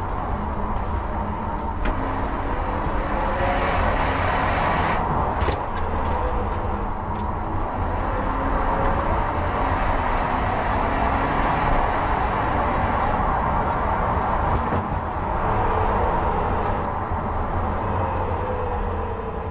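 BMW F30 328i's turbocharged four-cylinder engine heard from inside the cabin while driving, its revs rising and falling, over steady tyre and road noise. The sound starts to fade out at the very end.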